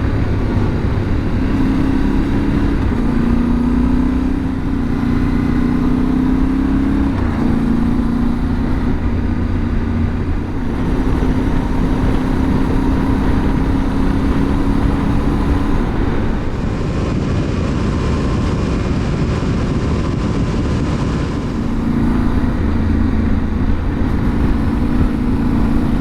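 Yamaha Ténéré 700's parallel-twin engine under way on the road, its note climbing in steps during the first several seconds as the bike accelerates, then holding steady, over a constant rush of wind and road noise.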